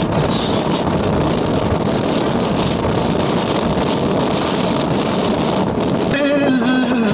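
Steady, loud rushing noise with no clear rhythm or tone. About six seconds in, a man's singing voice begins over it.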